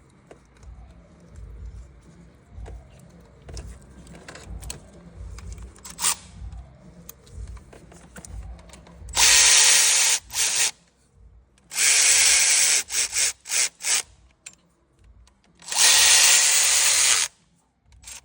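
Cordless power driver spinning bolts in, in several runs of a second or so with quick blips between them, starting about halfway through. Before that, faint clinks of tools and parts being handled.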